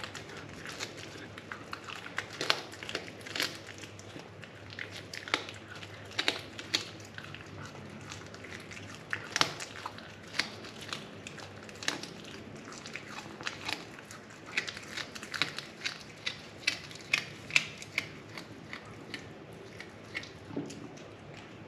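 A cat chewing and crunching on a bird it has caught: irregular sharp crunches, several a second at times.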